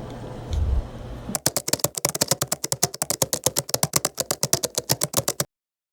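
Rapid, even key-typing clicks, about ten a second, starting about a second in and cutting off abruptly into dead silence shortly before the end.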